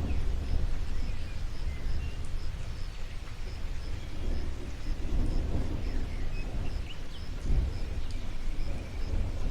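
Low rolling rumble of distant thunder that swells and fades, over a light hiss of rain. Scattered bird chirps and a faint high pulse repeating about twice a second sound above it.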